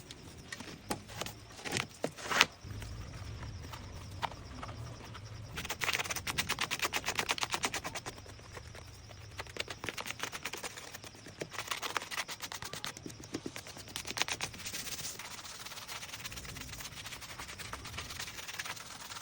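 Quick back-and-forth brushing strokes on a leather shoe, about six a second, coming in bursts, with a few sharp knocks and clicks near the start.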